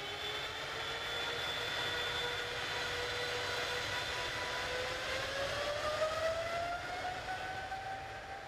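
Boeing 737-800's CFM56-7B turbofan engines at take-off power: a whine that rises in pitch over a steady rumble, climbing faster from about five seconds in.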